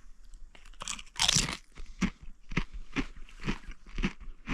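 A person biting into and chewing crunchy chips close to the microphone: a couple of loud crunches about a second in, then steady chewing crunches about twice a second.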